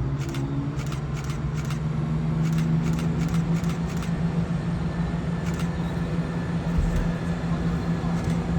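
A train running with a steady low engine or motor note that rises in pitch slightly at the start and then holds, with a series of short clicks over it.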